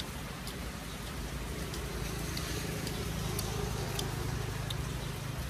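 Rain falling with scattered drips. A low vehicle engine hum swells through the middle and eases off near the end, as from a vehicle passing by.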